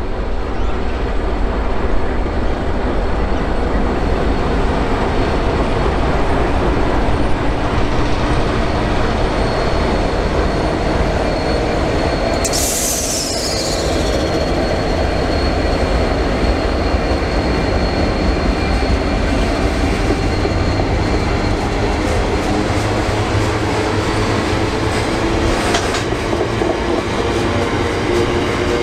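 Diesel freight locomotives working past at a crawl with a steady low engine drone, followed by the rumble of the wagons. About twelve seconds in, a high wheel squeal falls in pitch, and a thin high squeal carries on for several seconds afterwards as the train takes the curve.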